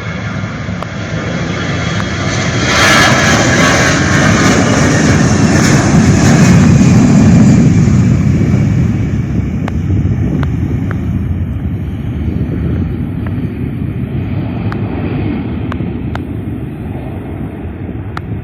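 Airliner's engines passing: the noise swells over the first few seconds, peaks, then slowly fades.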